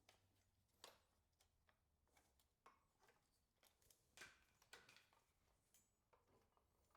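Faint, scattered clicks and light taps of hand tools and parts being handled in the engine bay, about a dozen, irregularly spaced, the loudest about four seconds in.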